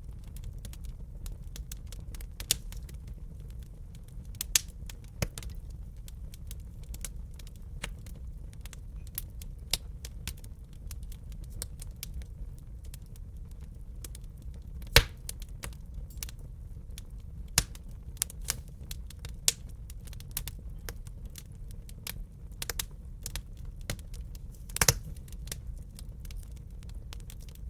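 Wood fire burning in a fireplace: a steady low rumble with scattered sharp crackles and a few louder pops, the loudest about halfway through and again near the end.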